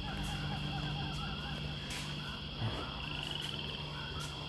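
Chorus of animal calls: many short repeated chirps over a steady high-pitched drone, with a fast trill about three seconds in and a single sharp click about two seconds in.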